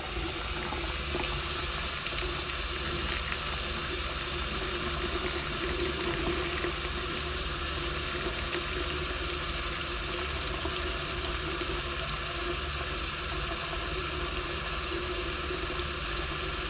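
Water running steadily from a faucet, left open while waiting for the hot water heated by the Aquahot system to come through.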